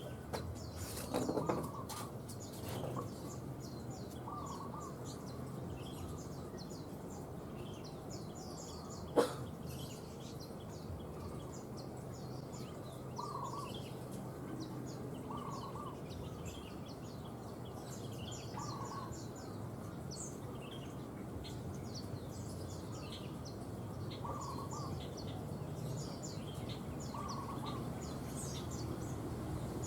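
Zebra dove (perkutut) cooing in short low notes every few seconds, over a steady stream of rapid high chirps from other small birds. A single sharp click about nine seconds in.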